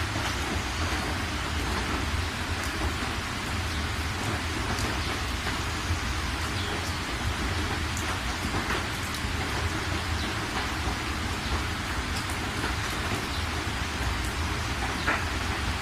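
Steady rain falling, with scattered individual drops ticking on a surface over a constant low rumble.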